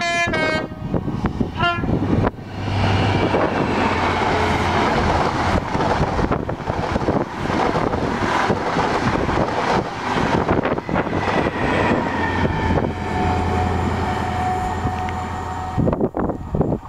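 InterCity 125 High Speed Train with Class 43 diesel power cars at each end sounds two short horn blasts as it approaches, then passes at speed: engine drone and wheels running on the rails, with the low engine hum strong as the leading and then the trailing power car go by.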